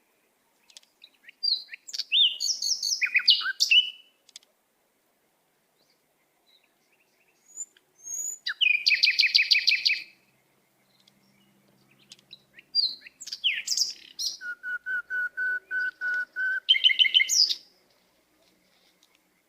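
A songbird singing in three bursts separated by pauses. The phrases mix quick chirps and gliding whistles with a rapid, evenly spaced trill, and the last burst includes a run of about eight short, low whistled notes.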